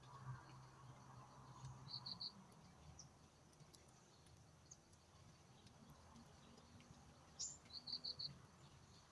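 Faint high chirps from a small animal, in two quick runs of four, one about two seconds in and one near the end just after a brief louder squeak, over otherwise near-silent outdoor quiet.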